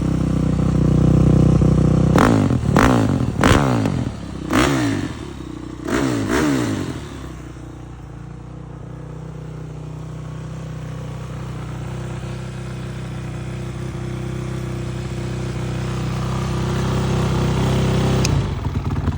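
Honda TRX450ER's single-cylinder four-stroke engine with an HRC kit, running cold on the choke at a fast idle. It is blipped sharply about six times between two and seven seconds in, then settles back to a steady idle that grows slowly louder.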